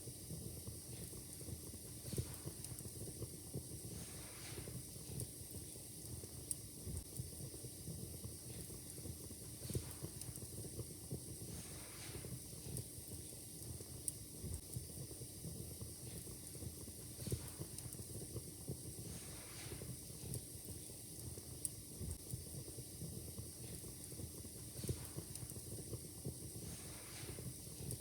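Wood fire crackling in a fireplace: irregular small pops and snaps over a steady hiss, with a few longer soft hisses every several seconds.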